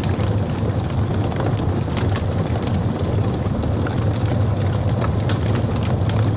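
Wood fire burning: a steady low roar with frequent irregular crackles and small pops.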